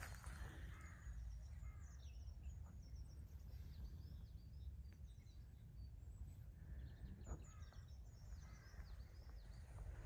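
Faint birdsong: scattered short high chirps in two bursts, the first in the first half and the second after about seven and a half seconds, over a steady low rumble.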